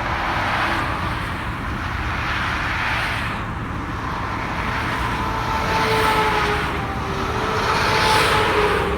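1986 Jeep Cherokee V6 cruising at highway speed: steady road and wind noise that swells a few times, with a faint whine near the end.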